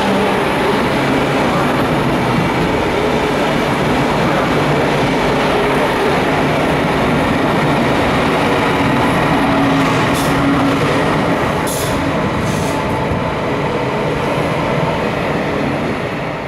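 Belgian SNCB passenger train rolling past the platform close by: a steady loud rumble of coach wheels on the rails with a low hum. A few short high-pitched sounds come about ten to thirteen seconds in, and the noise eases off near the end as the train clears.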